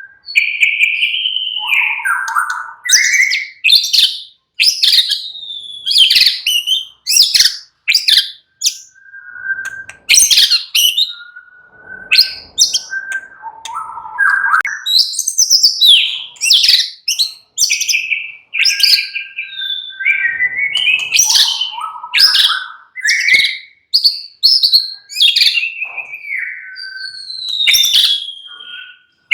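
White-rumped shama singing loudly and close up: a run of varied whistled phrases, with notes sliding up and down, sharp high notes, and short pauses between phrases.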